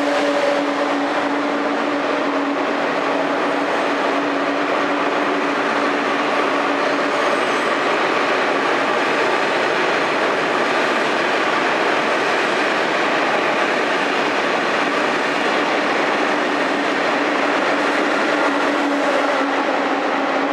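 A TGV Atlantique high-speed trainset running slowly along a platform, a steady rolling rumble and hum that echoes under a concrete station roof.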